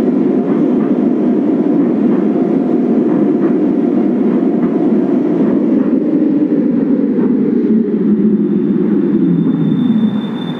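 Kinki Sharyo/Nippon Sharyo 1200-series light rail train running on the track with a steady rumble and faint regular clicks from the wheels. From about six seconds in, the rumble drops in pitch as the train slows. A thin high whine joins near the end, and the rumble falls away sharply just after ten seconds.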